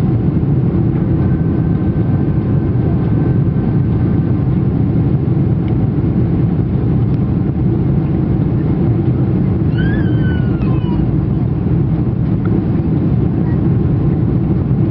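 Steady low rumble of a Boeing 747-400's engines and rushing airflow, heard inside the passenger cabin as the airliner climbs after take-off.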